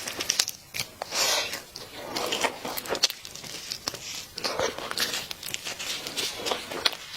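Fried chicken being bitten, torn and chewed, with many crisp crunching crackles.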